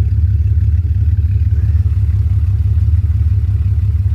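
2001 Jeep Grand Cherokee's 4.0 L inline-six idling steadily shortly after a cold start in extreme cold, with a deep, evenly pulsing exhaust note.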